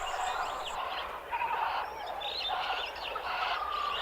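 A forest chorus of many birds calling at once, with overlapping rapid chirps and whistled glides. A thin, steady, high-pitched whine stops less than a second in.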